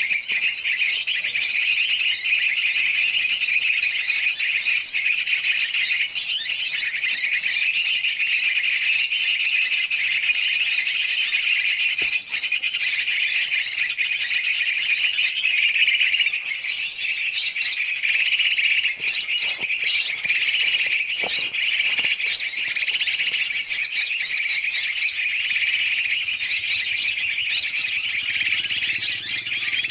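A dense chorus of many birds chirping and twittering over one another without a break: a bird-lure recording mixing the noisy calls of large and small birds to draw in birds such as yellow-vented bulbuls.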